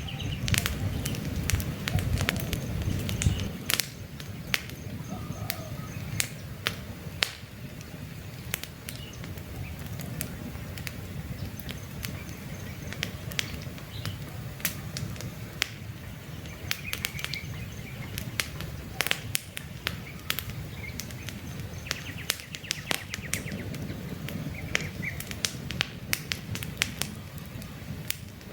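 Campfire logs crackling and popping, with many sharp snaps over a low steady rumble of flame, louder in the first few seconds. Birds chirp briefly now and then.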